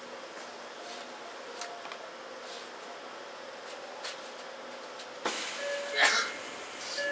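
Tokyo Metro 8000-series electric train standing still, heard from inside the car: a faint steady hum from the onboard equipment with small clicks. About five seconds in, a sudden louder hiss and clatter from the doors opening.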